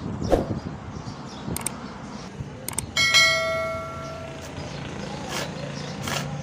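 A metal object is struck and rings once about three seconds in, its tone fading over about a second and a half, after a few sharp clicks.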